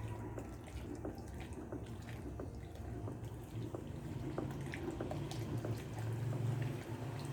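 Liquid homemade soap mixture being stirred with a small paddle: soft liquid sloshing with scattered light clicks of the paddle against the container, over a low steady hum.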